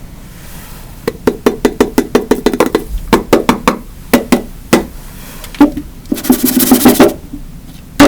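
Rapid series of sharp knocks and taps on a hard surface, about five a second, then a few scattered strikes, a short dense clatter near the end and one loud final knock: hand-held objects being struck down hard at a loose wolf spider.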